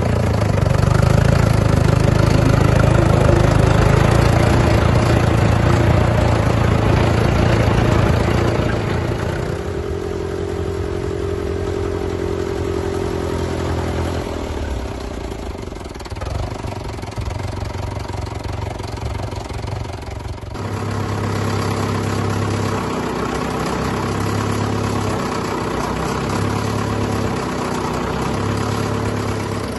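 Fordson Super Major's four-cylinder diesel engine running, at higher revs for about the first nine seconds, then dropping to a lower idle. From about twenty seconds in there is a slow, regular pulsing in its note.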